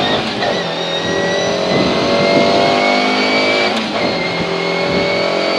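Škoda Favorit rally car's four-cylinder engine heard from inside the cabin, pulling hard under full acceleration with its pitch climbing steadily. About four seconds in the pitch drops at an upshift, then starts climbing again.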